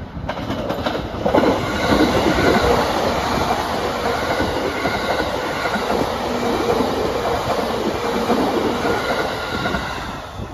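Green-striped JR E233-series electric commuter train running through the station at speed without stopping. A rushing wheel-and-rail roar with quick rail clicks and a steady whine builds in the first second, then starts to fade near the end.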